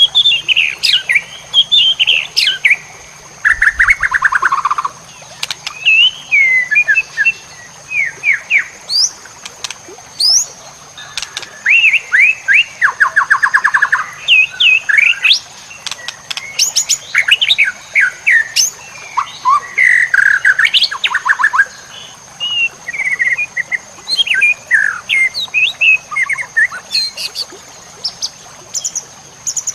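White-rumped shama (murai batu) singing in loud separate phrases of rich whistles, quick sweeping notes and rapid trills, with short pauses between them. A faint steady high-pitched tone runs underneath.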